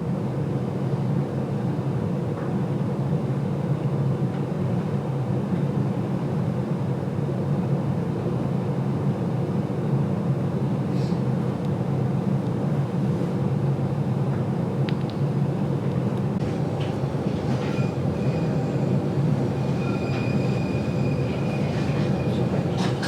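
GoldenPass Belle Époque train running, heard from inside the carriage: a steady low rumble of wheels and bogies on the track. A faint high squeal comes and goes in the last few seconds.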